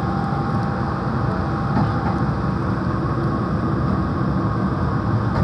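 Steady running noise inside a Meitetsu 3500 series electric train car as it travels along at speed.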